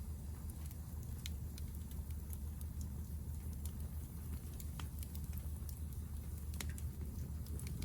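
Hardwood fire burning in a Picogrill titanium fire pit: scattered sharp crackles and pops over a steady low rumble.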